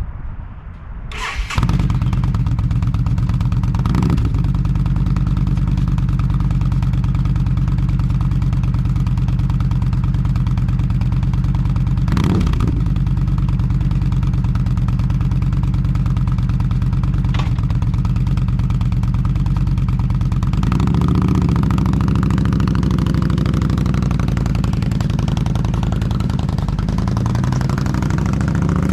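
A 2013 Yamaha V-Star's V-twin engine starting about a second in, then idling steadily through its muffler. From about two-thirds of the way through, the engine picks up and revs, rising near the end.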